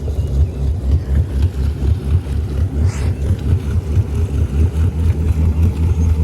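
Boat engine running at raised revs with a steady low pulsing, just after a cold start.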